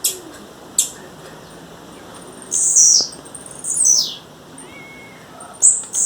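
Blue-black grassquit (tiziu) calling: three short, high notes that each slide downward, starting about two and a half seconds in, about a second apart. Two sharp clicks come in the first second.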